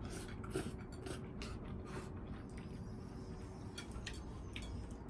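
Quiet eating at the table: scattered small clicks and taps of utensils and dishes, over a steady low hum.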